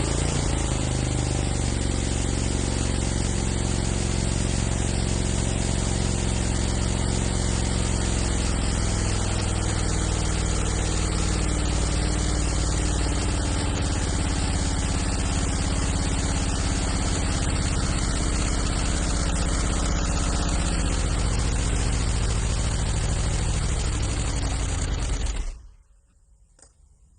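Very old engine running steadily, its pitch settling slightly in the first second, then cutting off abruptly near the end.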